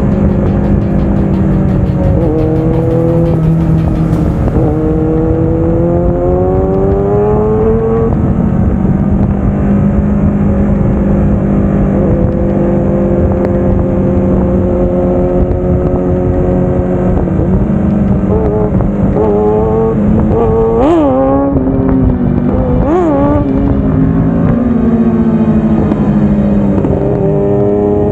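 Kawasaki Ninja 650 parallel-twin engine being ridden, its pitch climbing and dropping with throttle and gear changes. Two quick sharp revs come about three quarters of the way through, and the pitch climbs again near the end.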